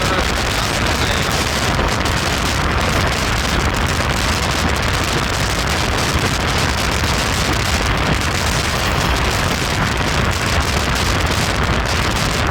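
Steady, loud rush of a moving train: wheels rumbling on the track and air rushing past, with no breaks or distinct knocks.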